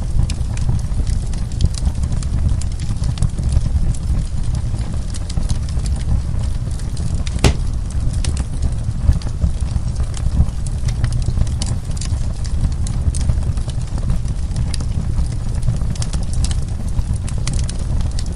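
Burning wood crackling in a fireplace: a steady low rumble with scattered sharp pops, one louder pop about seven and a half seconds in.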